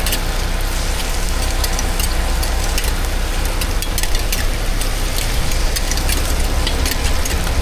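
A steady low rumble, like a running engine or burner, under scattered sharp crackles and light clicks at a street-food griddle stall.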